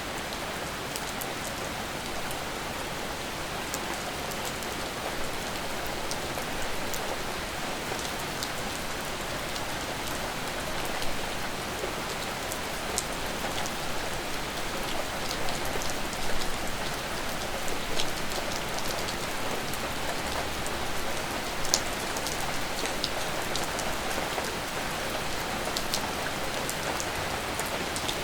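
Steady rain falling, an even hiss with the sharp taps of individual drops landing close by scattered through it.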